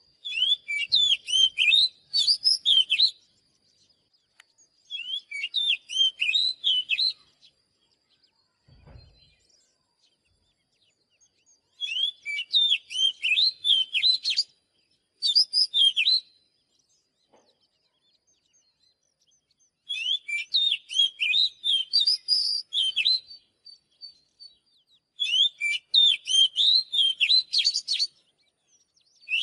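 Oriental magpie-robin singing: phrases of rapid, varied high whistled notes, each a few seconds long, with short silent pauses between them, about six times in a row.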